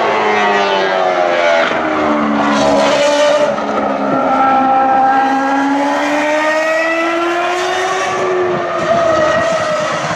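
Several Ferrari racing car engines running at high revs on track, heard from a distance and overlapping. Early on their pitch drops, then it climbs and falls again as they slow and accelerate through the corners.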